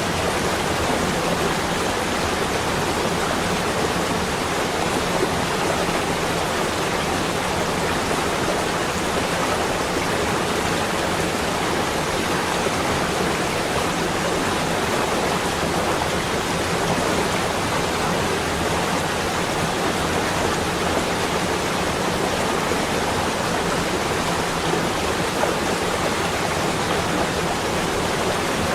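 Steady, even rushing hiss that holds unchanged throughout, with no distinct drops, gusts or other events.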